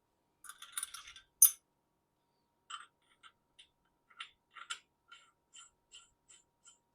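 Metal parts and hand tools clinking during milling-head assembly: a cluster of sharp clinks with one loud click, then a steady run of light metallic ticks about three a second, like a ratchet being worked.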